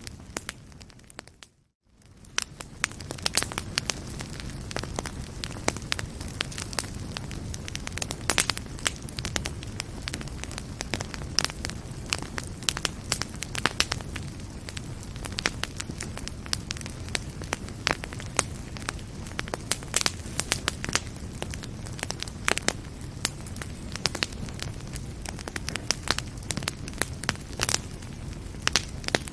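Fire burning in a fireplace: a steady low rumble with frequent sharp crackles and pops at irregular intervals. About two seconds in it briefly fades almost to silence, then fades back up.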